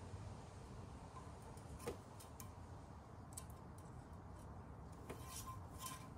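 Quiet background with a few faint light clicks and taps, one about two seconds in and several more later on.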